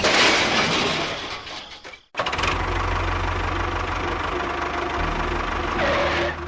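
A noisy rush fades out, then after a short break an engine starts in and runs steadily with a fast, even low pulse, like a small engine idling.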